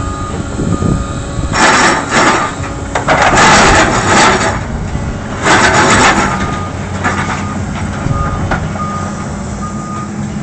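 A 14-ton excavator's diesel engine runs while its travel alarm beeps at a steady pace. In the first six seconds there are three loud, rough bursts of noise as the machine works.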